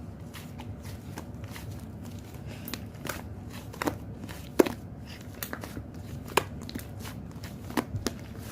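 Slime being squeezed and poked by hand, making irregular sharp clicks and crackling pops, with a few louder pops around the middle and near the end.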